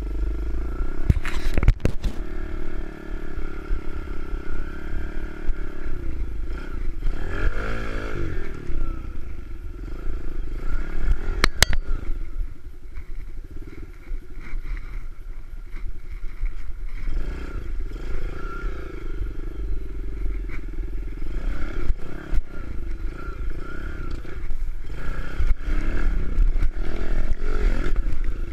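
Kawasaki KLX110 pit bike's small single-cylinder four-stroke engine running under riding load, revving up and dropping back several times as the throttle is worked, with a few sharp knocks.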